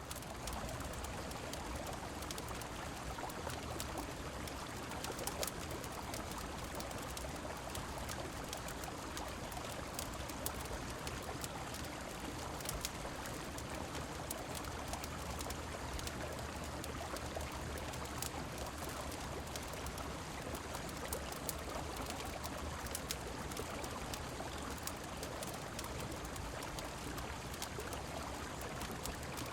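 Steady rushing of a flowing river with falling rain, scattered with sharp crackles of a fireplace fire.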